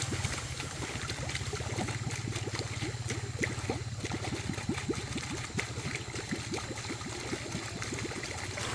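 Water splashing and trickling in many quick small drops over a steady low hum.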